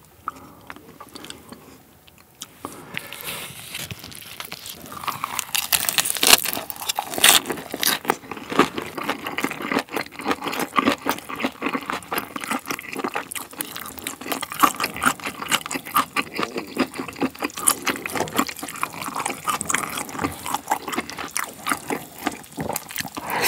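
Wet chewing of a lettuce and perilla-leaf wrap of spicy stir-fried pork tripe: a dense, irregular run of squelching, crunching mouth sounds that starts a couple of seconds in.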